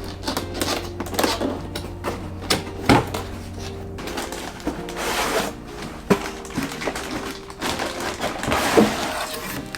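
A toy box being unpacked by hand: cardboard and plastic packaging rustling, with scattered knocks and clicks, over soft background music.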